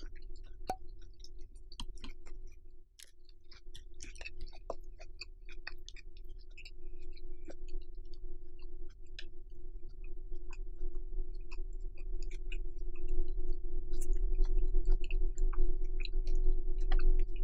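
Close-miked chewing of grilled pork: scattered wet mouth clicks and smacks. Under it runs a steady hum that grows louder over the last few seconds.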